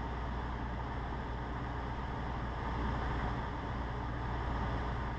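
Cessna 150's Continental O-200 four-cylinder engine and propeller droning steadily in the cockpit at reduced power, throttled back to about 1500 rpm with carb heat on for the descent in the landing pattern.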